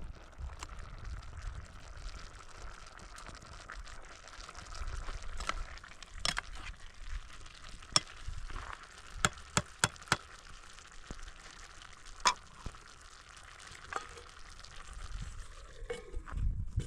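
Food sizzling as it fries in a pan, a steady hiss broken by a scatter of sharp clicks and ticks, loudest about eight to twelve seconds in, likely from a stirring utensil striking the pan.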